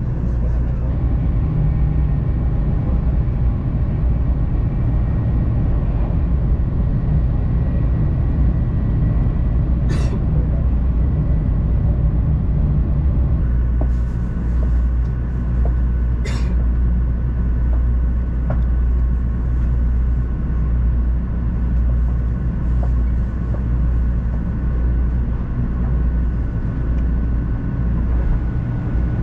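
JR West 500 series Shinkansen running at speed, heard from inside the passenger car: a steady low rumble with a faint steady whine above it. A brief sharp click comes twice in the middle.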